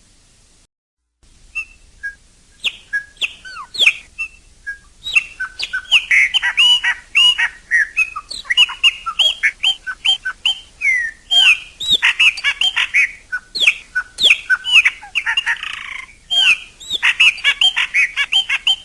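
Chopi blackbird (pássaro-preto) singing: a fast, varied run of loud whistled notes that sweep up and down. It begins about a second in, grows denser, and breaks off briefly near the end.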